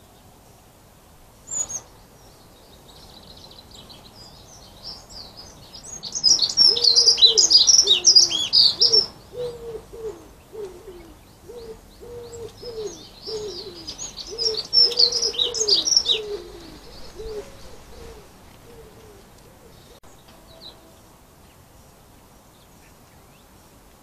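Garden birds calling: two bouts of loud, high twittering, with a run of lower, falling notes repeated about twice a second through the middle. A single sharp click comes near the start.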